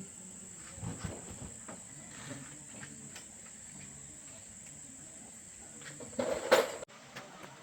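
Steady high-pitched chirring of crickets or other insects, with scattered light knocks and a louder noisy scrape about six seconds in that cuts off abruptly.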